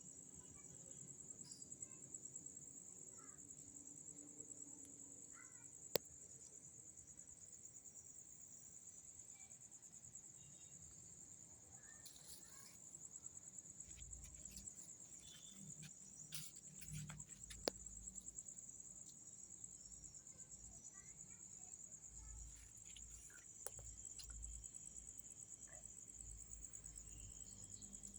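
Insects trilling steadily in a high, fast-pulsing drone, with a few sharp clicks and faint low rumbles over it.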